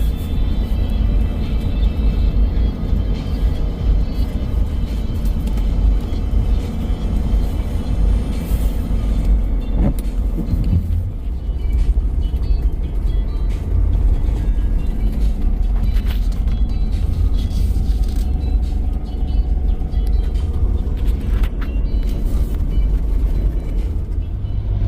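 Pickup truck driving slowly through deep snow, heard from inside the cab as a steady low rumble, with music playing over it.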